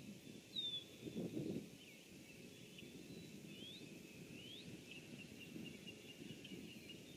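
Small birds calling faintly: a short falling chirp, two quick rising whistled notes, and a rapid run of repeated high ticks near the end, over a low outdoor background hum. A brief low rumble sounds about a second in.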